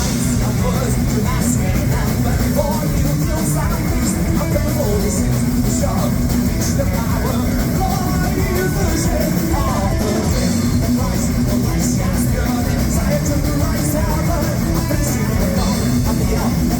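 Heavy metal band playing live, loud and dense: distorted electric guitars, drums with crashing cymbals, and a singer's vocals.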